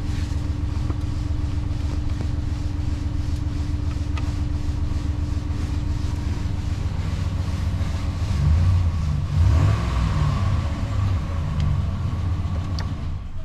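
2013 Dodge Ram 1500's 5.7-litre Hemi V8 running, revved briefly a couple of times between about eight and eleven seconds in before settling back to idle.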